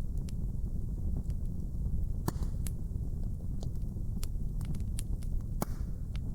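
Wood fire burning in a hearth: a steady low rumble with scattered sharp crackles and pops, the loudest about two and a half and five and a half seconds in.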